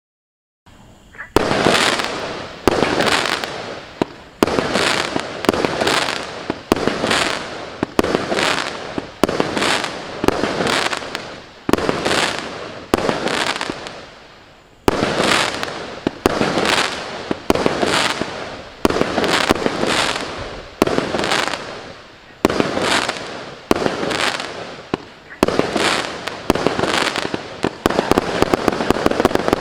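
MC127 multi-shot firework cake firing one shot about every second and a half. Each shot is a sharp bang followed by a fading crackle. There is a short pause near the middle, and a quick run of many rapid cracks near the end.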